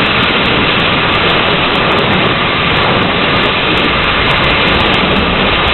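Heavy rain pounding steadily on a car's roof and windows in a severe thunderstorm, with strong wind, heard from inside the car.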